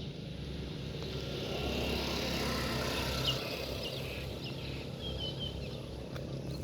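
Outdoor background noise: a steady low hum with a broader rush that swells and fades about halfway through, and a few short high chirps.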